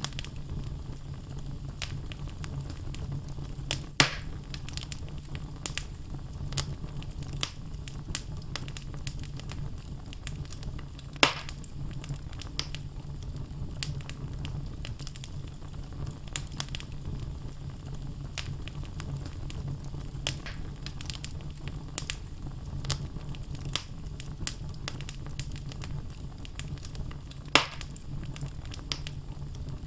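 Wood fire burning in a fireplace: a steady low rumble of flame with frequent crackles and pops from the burning logs, three of them sharper and louder than the rest.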